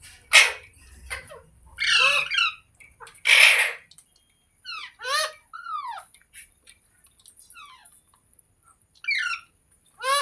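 A pet parrot calling. Three loud, harsh squawks come in the first few seconds, then a few shorter, quieter calls that slide down in pitch, with pauses between them.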